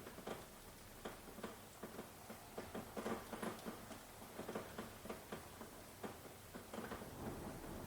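Rain falling, heard as a soft hiss with heavy drops tapping irregularly, several a second.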